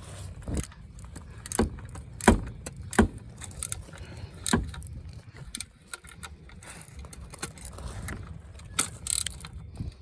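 Irregular metallic clicks and clinks of a wrench working the oil drain plug during its final tightening.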